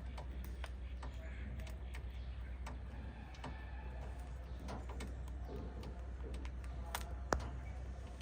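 Pet cockatiels and budgies moving about: scattered small clicks and taps, with one sharper click near the end, and a few faint soft chirps over a steady low hum.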